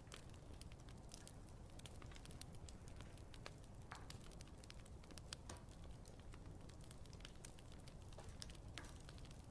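Wood campfire crackling softly, with scattered sharp pops and clicks over a low steady rumble of flame.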